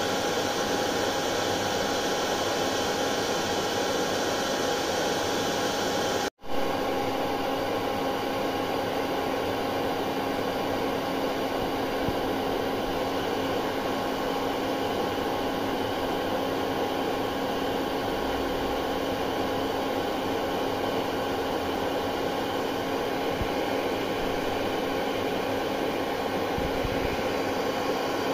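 Hair dryer running steadily: an even rushing blow of air with a faint steady hum in it. It cuts out for a split second about six seconds in, then carries on unchanged.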